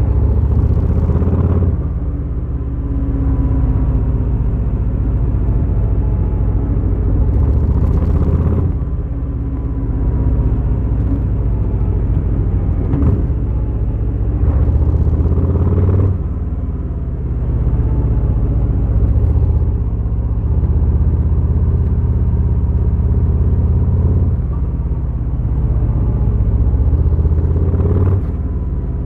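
Harley-Davidson Fat Boy's V-twin engine running while riding, a deep steady rumble. The sound drops briefly every several seconds, then pulls back up.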